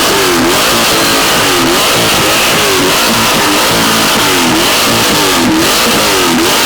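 Corvette V8 with an aftermarket exhaust being revved in quick repeated blips, each rising and falling in pitch, about one to two a second, loud throughout.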